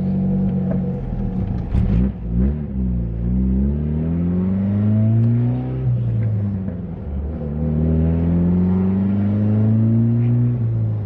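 Turbocharged Honda D15B four-cylinder engine pulling under acceleration, its pitch climbing steadily and then dropping twice at gear changes, about six seconds in and again near the end.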